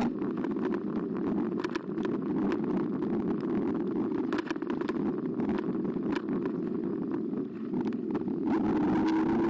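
eBike riding along a path: steady rumbling noise from the tyres and frame on a bike-mounted camera, with scattered light clicks and knocks. Near the end the electric motor's whine comes in as a steady hum.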